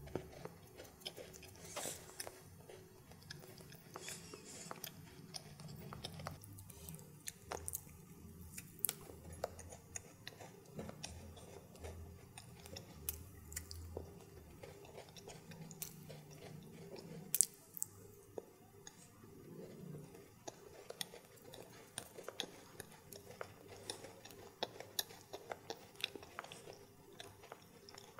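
Close-miked chewing of Indian sweets, with irregular sharp mouth clicks throughout and one louder click about two-thirds of the way through.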